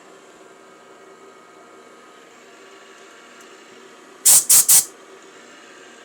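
Three quick, loud hissing blasts of compressed air from a blow gun, about four seconds in, over the steady hum of a running machine tool.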